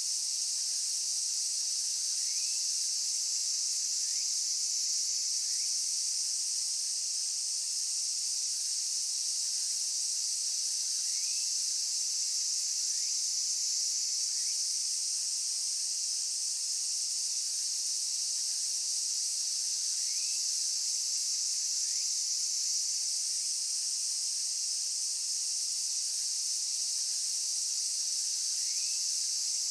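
Chorus of singing insects: a dense, steady, high-pitched trilling. Faint short rising chirps recur every couple of seconds underneath it.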